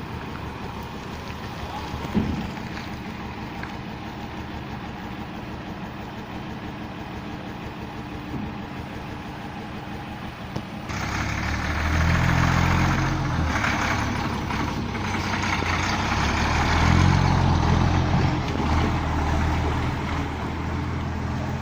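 Lorry engine running steadily, with a single knock about two seconds in. About halfway through it grows suddenly louder and revs up and down.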